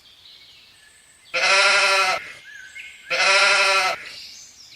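Sheep bleating twice, each bleat a steady-pitched call just under a second long.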